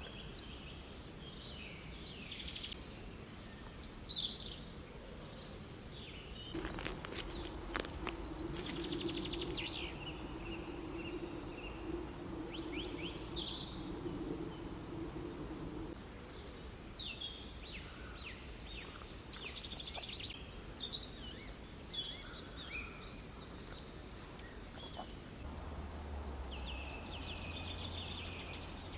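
Woodland birds singing and calling, with many short chirps and trills over a low background of outdoor noise. A low steady hum joins in about seven seconds in and fades out around the middle.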